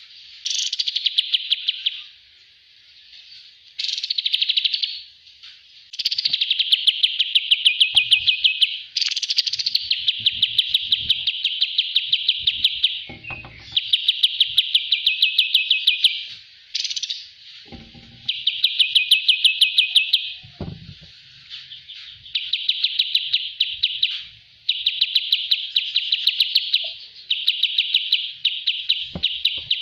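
Kapas tembak songbird singing: long, fast, high trills, each phrase lasting one to three seconds and often opening with a quick upward sweep, repeated over and over with short pauses between.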